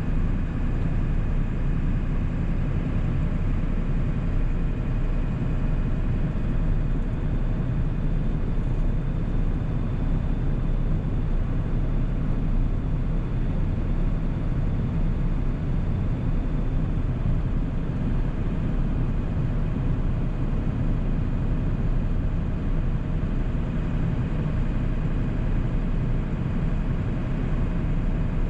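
A 1997 7.3 L Powerstroke turbodiesel V8 running steadily as the truck drives along: a constant low drone with no changes in pace.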